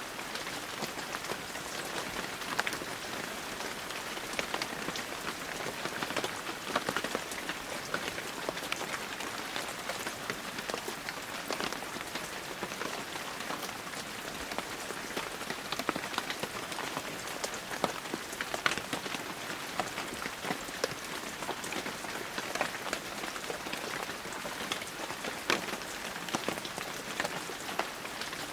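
Heavy rain falling steadily, a dense even hiss with many distinct drops pattering and ticking on surfaces close by.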